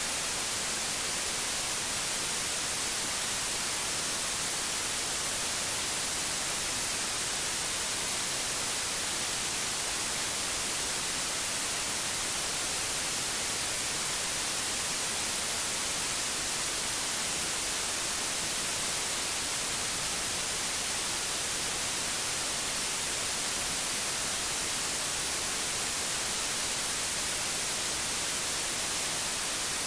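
Steady white noise: an even, unchanging hiss, stronger in the highs.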